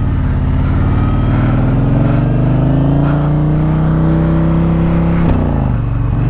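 Indian Challenger Elite's 108 cubic inch PowerPlus V-twin pulling under acceleration, its pitch climbing slowly, then dropping sharply about five seconds in before steadying at a lower pitch.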